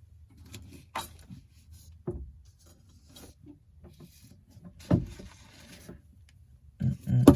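Small objects being moved around on a workbench: a few light knocks and scrapes as tools and parts are shifted aside while searching for a dropped screw.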